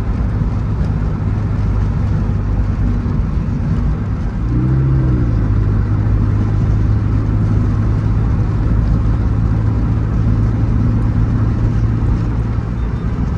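Scion FR-S's 2.0-litre flat-four engine running while driving, with steady road noise. About four and a half seconds in, the engine note briefly rises and falls, then holds steady and slightly louder.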